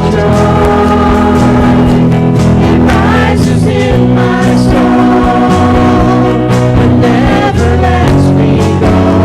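Worship music: voices singing a Christmas song over a full accompaniment with guitar and deep sustained bass notes.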